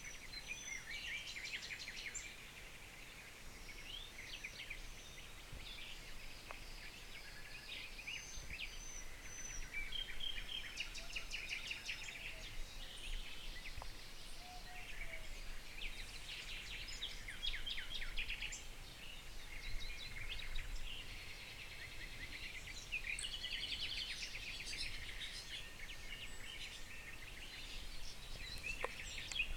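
Several songbirds singing at once, a dense mix of chirps, trills and short whistles, over a faint low background hum.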